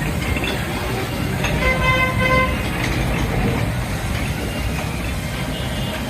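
A short pitched toot of a horn, with a brief break near its end, about two seconds in, over a steady low rumble.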